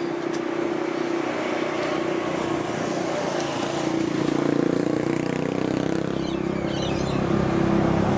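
A vehicle running past with a steady rumble and hum that grows a little louder about halfway through.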